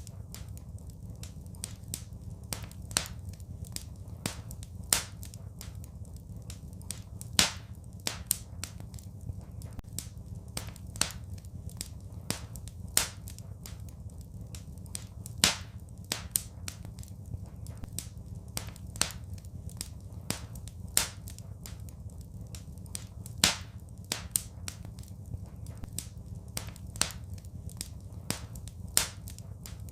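Wood fire crackling: a steady scatter of small snaps with sharp louder pops every couple of seconds, over a low, even rumble.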